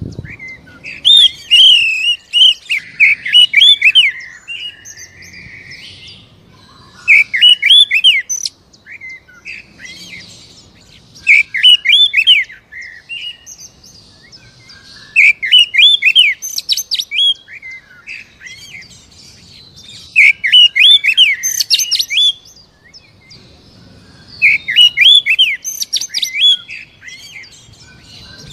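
Oriental magpie-robin (kacer) singing loud, rapid phrases of quick up-and-down notes, each about a second and a half to two seconds long and repeated roughly every four seconds, with fainter chirps between them.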